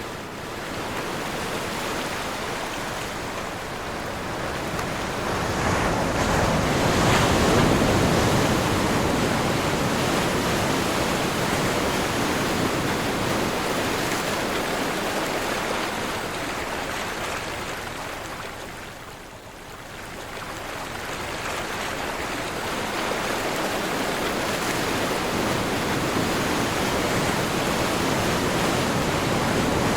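Ocean surf washing and breaking in a steady wind. The surge swells about seven seconds in, fades to a brief lull at about twenty seconds, then builds again.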